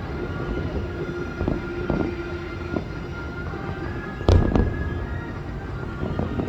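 Fireworks going off over a steady rumble: several dull thumps, then one sharp, loud bang about four seconds in.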